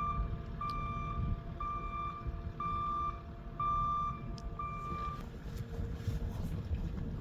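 An electronic beeper sounds a steady, even tone about once a second, six times, and stops about five seconds in, over a low background rumble.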